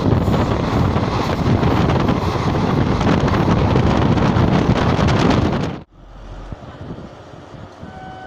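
Loud rushing noise of an Indian passenger train running at speed, heard from an open coach door with wind buffeting the microphone. It cuts off abruptly about six seconds in, leaving a much quieter background.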